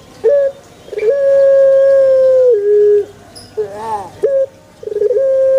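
Male puter dove cooing: a short note, then a long, steady coo that drops in pitch at its end, and a second long coo starting near the end, with a few brief wavering calls in between.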